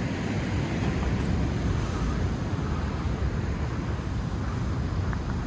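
Wind buffeting the phone's microphone in a steady low rumble, over the wash of heavy surf.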